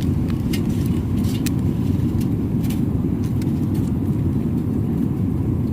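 Airliner cabin noise in flight: a steady, deep rumble of the jet engines and airflow, with a few faint small clicks over it.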